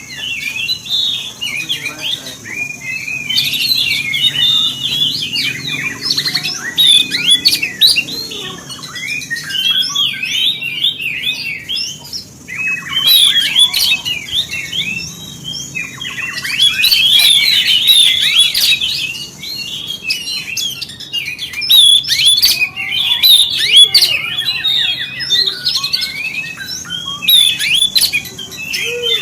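Oriental magpie-robin (kacer) singing a fast, varied song of rapid chirps and whistles in long phrases, with brief pauses between them. It is the kind of excited song played as a lure to provoke other kacer birds into singing.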